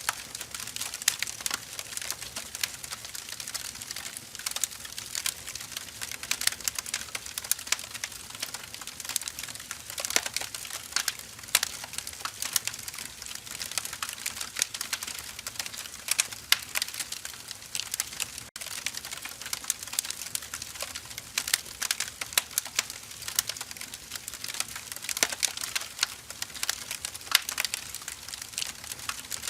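Firewood burning, crackling steadily, with a dense run of small snaps and now and then a louder pop over a soft hiss.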